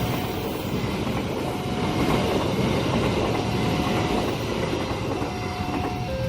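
Train passing close by: a steady rumble and rattle of wheels on the rails, with faint short high tones now and then.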